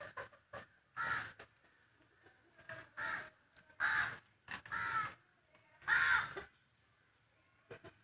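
A bird calling about five times, each call short and roughly a second apart, with faint clicks of pigeons pecking scattered grain on concrete in between.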